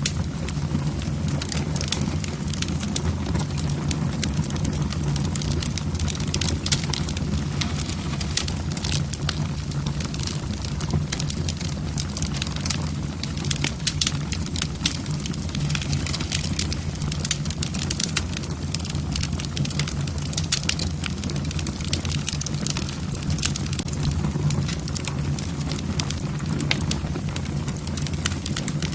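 Wood fire in a fireplace, logs crackling with dense, irregular sharp pops over a steady low rumble of the flames.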